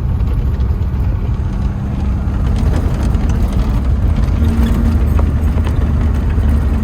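Datsun 620 pickup's engine running as the truck drives, a steady low drone.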